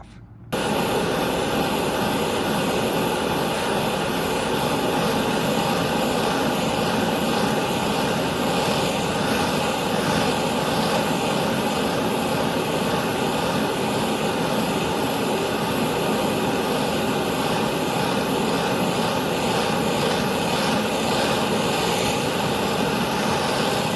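A gas torch flame burning steadily, heating the Loctite-locked piston nut on a hydraulic cylinder rod so that it will break free. The noise starts abruptly about half a second in and holds even throughout.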